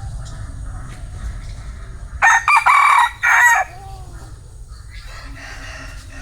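Bantam rooster crowing once, a loud crow about two seconds in that lasts about a second and a half, with a short break partway through.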